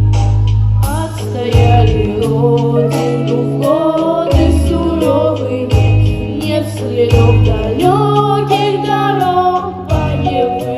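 Song sung over instrumental accompaniment, with a held bass line that changes note every second or two beneath the sung melody.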